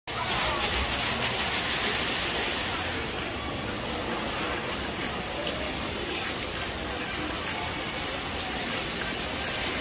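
Water fountain running: a steady rush of falling, splashing water, its highest hiss easing slightly about three seconds in.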